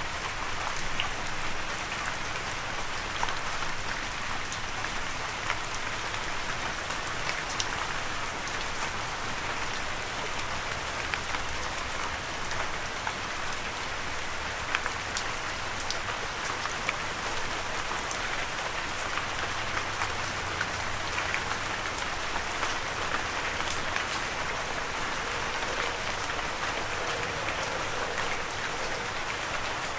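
Steady rain falling, a continuous hiss with many individual drops ticking and pattering on a surface.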